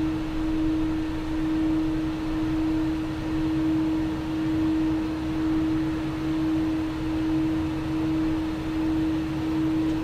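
Steady cockpit noise of a Learjet 60XR business jet in descent: an even rush of air with a constant low hum, swelling and easing slightly every second or two.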